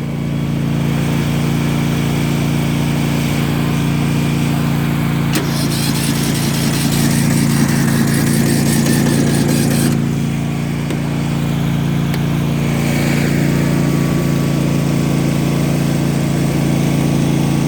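An engine running at a steady speed, with a harsher whirring noise joining it from about five and a half to ten seconds in.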